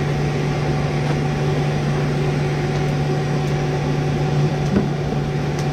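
Blacksmith's forge running steadily: a constant roar of the blast with a low hum underneath, and a few faint ticks near the end.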